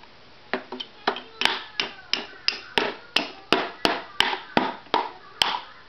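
A child's hammer knocking repeatedly, about fourteen sharp blows at roughly two to three a second, driving in the last pieces.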